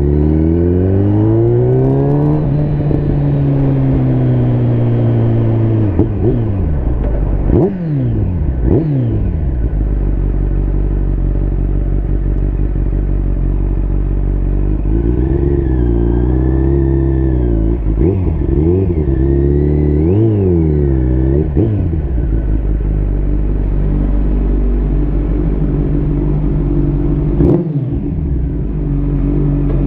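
Liter-class sportbike engine heard from the rider's position while under way: it revs up over the first couple of seconds, drops sharply in pitch a few times around the quarter mark, then rises and falls repeatedly with the throttle before settling into a steady run.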